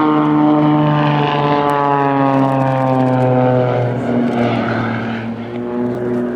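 Single-engine aerobatic propeller plane flying past. The engine-and-propeller drone falls steadily in pitch over about four seconds as it goes by, then holds a lower, steadier note.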